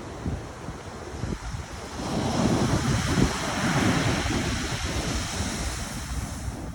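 Pacific Ocean surf: a wave breaks and washes in about two seconds in, swelling and slowly easing off, with wind buffeting the microphone.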